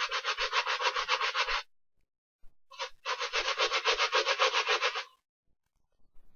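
A brush scrubbing a sneaker in quick, even back-and-forth strokes, about eight a second. The scrubbing comes in two bouts: the first stops about one and a half seconds in, and the second starts a second later and stops about five seconds in.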